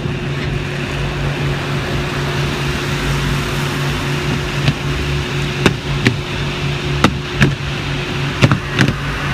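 Automatic car wash heard from inside the car: a steady drone of the wash machinery and spraying water with a low hum. From about halfway in, a string of sharp knocks on the car.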